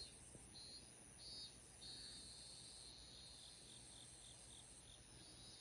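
Faint crickets chirping: short trilled chirps repeating, with one longer trill about two seconds in, over a steady high insect buzz.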